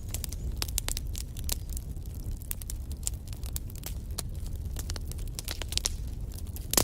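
Wood fire crackling in a fireplace: irregular sharp pops and snaps over a low steady rumble of flame, with one louder pop near the end.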